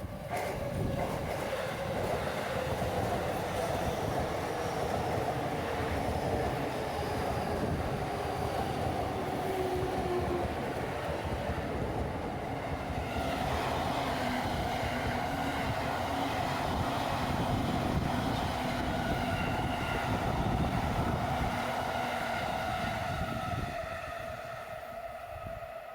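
Electric commuter train running past on the tracks at close range, a steady rumble of wheels on rail that comes in suddenly. About halfway through a higher whine joins, and the sound fades near the end.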